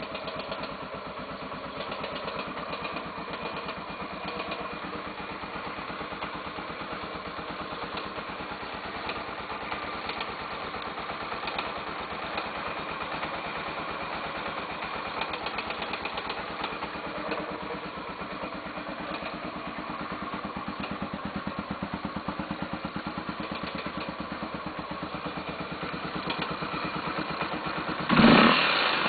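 Honda XR 250 Tornado's single-cylinder four-stroke engine idling with a fast, light tec-tec-tec ticking from the top of the engine, like valves knocking, which the owner takes for the tappets; the noise comes only when the engine is cold and at low revs. About a second before the end the engine is revved up sharply in short blips.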